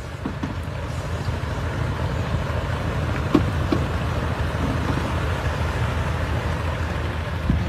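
Steady vehicle rumble under a noisy hiss, with a couple of short knocks about three and a half seconds in.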